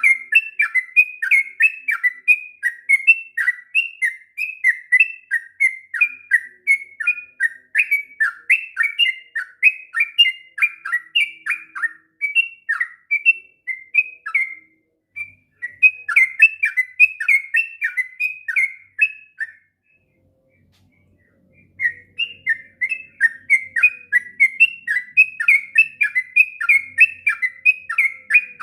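Yellow-vented bulbul (trucukan) singing a long, fast run of chirping notes with hardly a pause. It breaks off briefly near the middle and again for about two seconds about two-thirds of the way through, then carries on.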